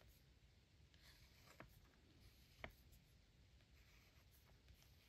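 Near silence with faint sounds of drawing on paper, and two small ticks about one and a half and two and a half seconds in.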